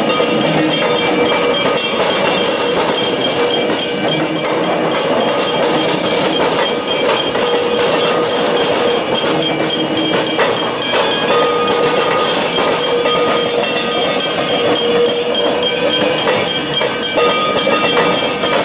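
Suburban electric train rolling slowly across a tram-track crossing, its wheels clacking over the crossing rails, with level crossing bells ringing steadily throughout.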